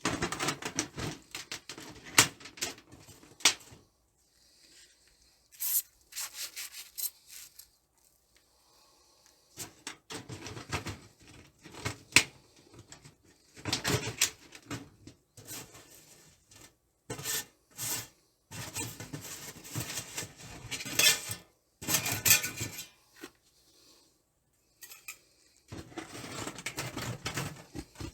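Thin titanium sheet-metal camp-stove parts being handled and fitted together: intermittent scraping and rubbing of metal on metal, with light clinks, in bursts separated by short pauses.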